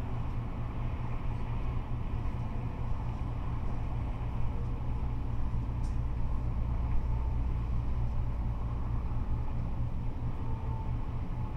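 Steady, continuous rumble of freeway traffic, cars and trucks passing, with no single vehicle standing out.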